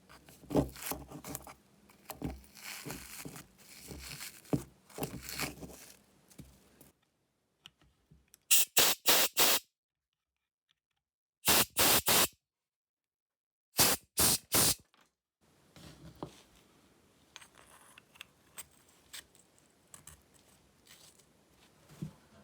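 Parts handled and scraped on a bench, then short hissing spray bursts in three quick groups with dead silence between them, followed by more light handling and clicks.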